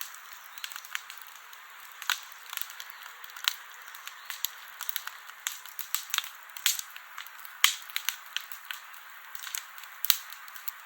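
Wood campfire crackling: irregular sharp pops and snaps, several a second, over a steady hiss of burning, with one louder snap a little before the eighth second.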